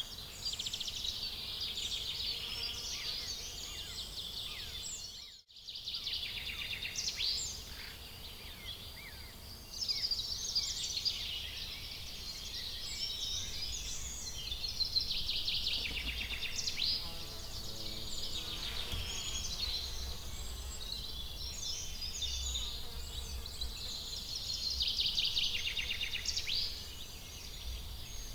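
Songbirds singing, several at once, with rapid trills and chirps, over a faint low rumble. The sound cuts out completely for a moment about five seconds in.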